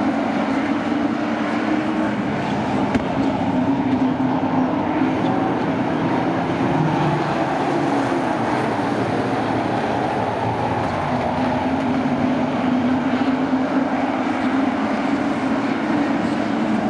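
Racing sport truck engines running together in a steady drone, the pitch rising and falling gently as the trucks circulate the track.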